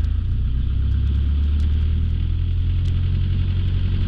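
Light aircraft's piston engine idling with a steady low drone, waiting at the runway holding point before takeoff; its note shifts slightly just after the start.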